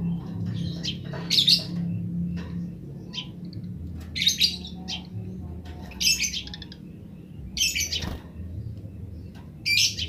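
Eurasian tree sparrow (burung gereja) giving short bursts of chattering chirps, about one every one and a half to two seconds, over a steady low hum.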